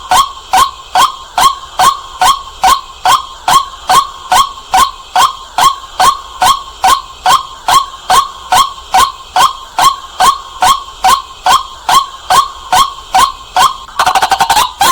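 White-breasted waterhen calling, a loud, clear run of short rising 'kwak' notes about two and a half a second at an even pace, breaking into a quicker run of notes near the end.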